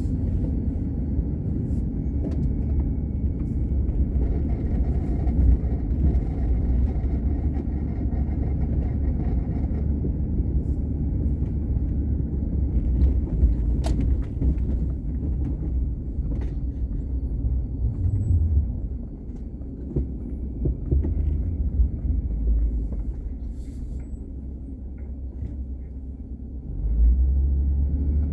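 Car driving, a steady low rumble of engine and tyres on the road that eases off about two-thirds of the way through and picks up again near the end.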